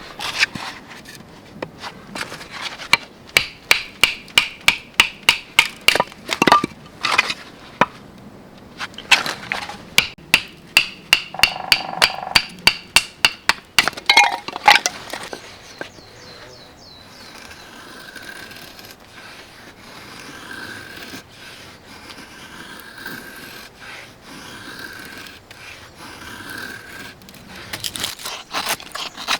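A rapid run of sharp knocks, two or three a second, each with a short ringing tone, for about fifteen seconds. Then a quieter stretch with a faint, short, repeated high tone, and the knocks start again near the end.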